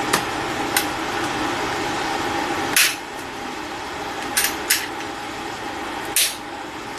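Metal parts and hand tools clinking as carburetor parts are refitted: about six short sharp clicks, the loudest near three seconds in, over a steady background hum.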